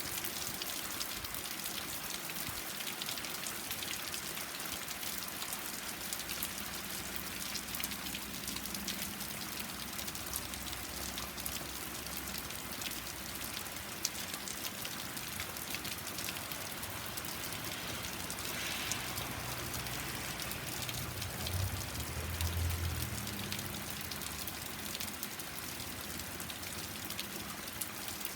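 Steady rain falling on a deck, a dense continuous patter of drops. A low rumble swells and fades about two-thirds of the way through.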